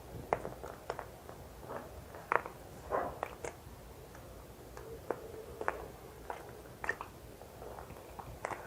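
Close-miked ASMR trigger sounds from serum items: irregular soft clicks, taps and squishes at an uneven pace, about a dozen over a few seconds.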